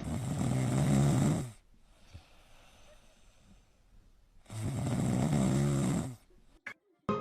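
Loud snoring: two long, rasping snores about three seconds apart, with quiet breathing between them.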